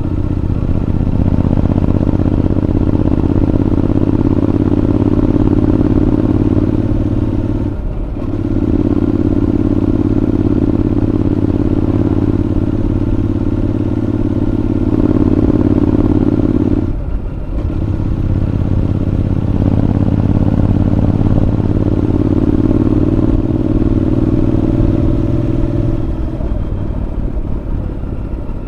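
Honda NC750X parallel-twin running through an aftermarket Moriwaki exhaust at a steady cruise, heard close as from inside the rider's helmet. The engine note briefly drops three times, about 8 seconds in, around 17 seconds and just before the end.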